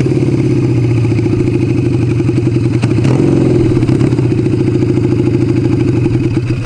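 1975 Kawasaki KZ400S's parallel-twin engine idling steadily with the bike stopped, with a single click about three seconds in as the rider works the gear lever trying to find neutral.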